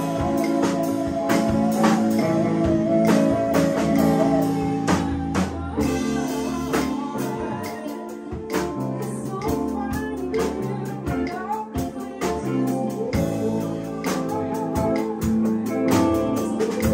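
Live band music: a singer over guitar, with drums and percussion keeping a steady beat.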